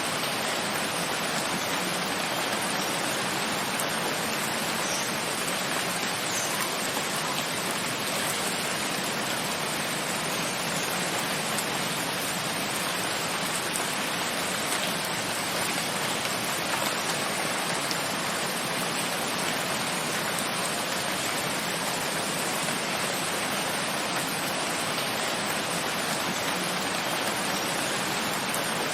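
Steady rain falling, an even, unbroken hiss with a few faint droplet ticks.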